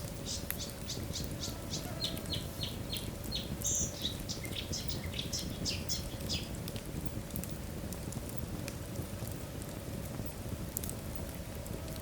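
Logs burning in a fireplace: a steady low rumble of the fire, with a quick run of short, high-pitched crackles through the first half and a few more near the end.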